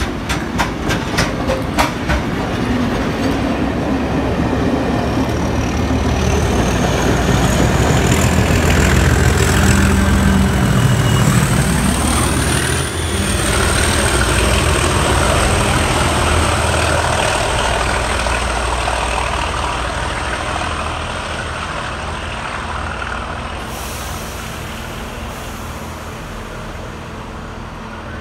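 A diesel-hauled train passing: rapid wheel clicks over the rail joints at first, then a heavy engine rumble with a high whistle that rises slowly and then holds, loudest about halfway through and fading toward the end.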